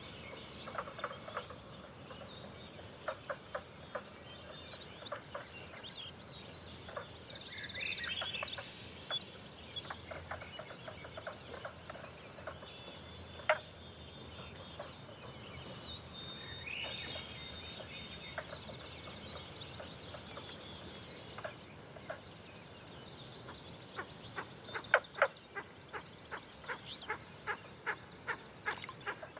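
Dawn chorus at a lake: birds singing whistled phrases and trills, with frogs giving many short clicking calls that form a quick regular series near the end.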